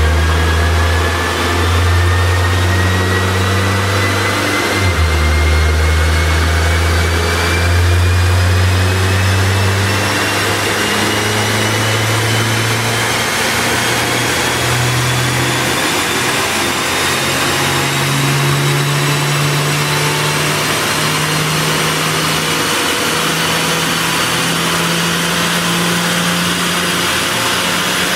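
2011 Peugeot RCZ's engine under load on a chassis dyno during a long power run, its revs climbing slowly and steadily. A high whine from the spinning drivetrain and rollers rises in pitch along with it.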